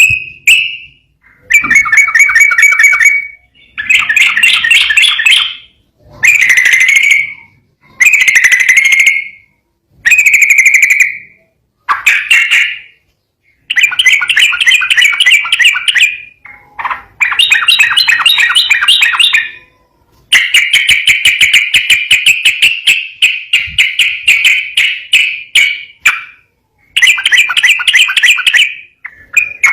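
Yellow-vented bulbul (trucukan) singing a loud, clear 'ropel' song: phrases of rapid chattering notes, each a second or two long with short pauses between, and one longer unbroken run about two-thirds of the way through.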